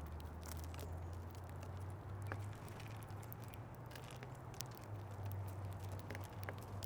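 Small birds feeding at a seed feeder: scattered light clicks and taps of pecking and hopping, with a steady low hum underneath.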